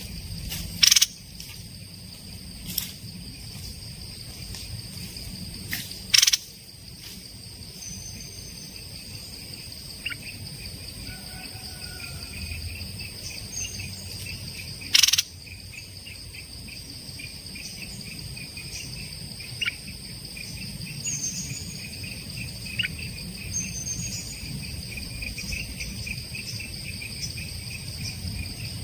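Insects droning steadily on a high buzz, a pulsing cricket-like trill joining about halfway. Short bird whistles and downward chirps come and go throughout. Three loud, sharp sounds stand out, about one, six and fifteen seconds in.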